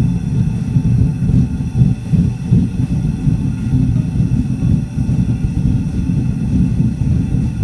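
Gas forge burner running, a steady low rumble of burning gas with a fluttering, uneven texture, freshly lit after its tiny jet holes were cleared with torch tip cleaners.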